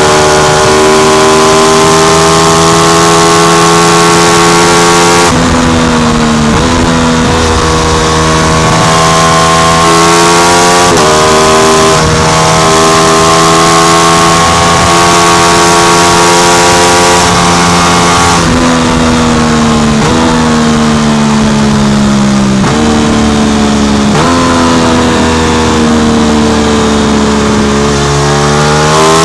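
Aprilia RS660's parallel-twin engine through an SC Project exhaust, running under way: its pitch holds for a few seconds at a time, then drops or slides about a dozen times, and climbs steeply near the end.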